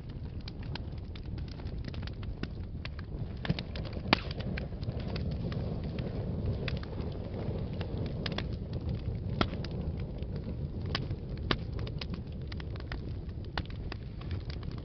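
Wood fire burning in a fireplace: a steady low rumble of the flames with irregular crackles and pops, two sharper pops about three and a half and four seconds in.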